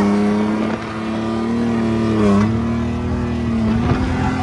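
Drift car's engine held at steady high revs, with a brief dip in pitch about two seconds in before it climbs back.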